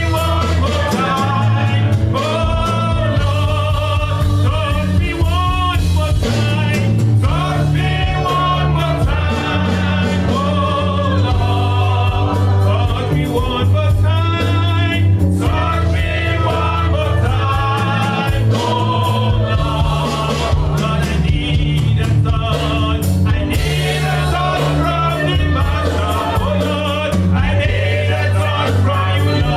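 Gospel worship song: singing with vibrato over a live band's bass and drums.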